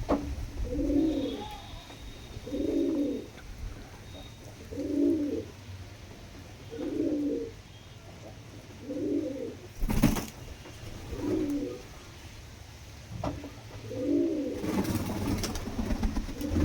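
Domestic pigeon cooing over and over, one low coo phrase about every two seconds. A sharp click comes about ten seconds in, and a short rustle near the end.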